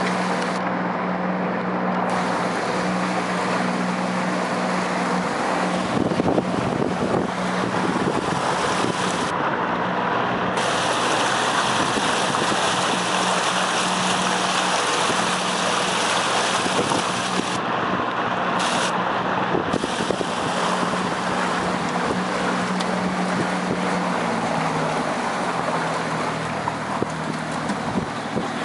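Outboard motor running steadily on a small boat, with wind on the microphone and water noise. About 25 seconds in, the engine's pitch drops as it slows.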